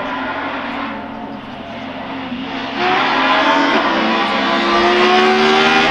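Hill-climb race car accelerating hard, its engine note climbing steadily in pitch. It gets much louder about three seconds in as the car comes close.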